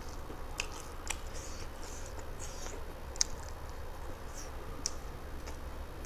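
Close-miked chewing of a mouthful of rice and chicken curry, with a handful of sharp, wet mouth clicks; the loudest comes a little after the middle.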